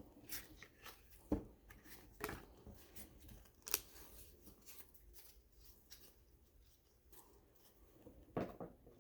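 Baseball cards being handled and flipped through: scattered soft clicks and snaps of card stock, the sharpest about a second and a half in and again near four seconds.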